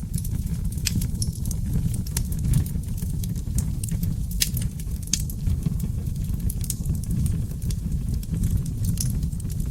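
Seasoned oak logs burning in a fireplace: a steady low roar from the flames with scattered sharp crackles and pops.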